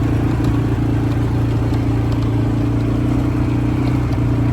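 Quad bike engine running steadily at an even pitch.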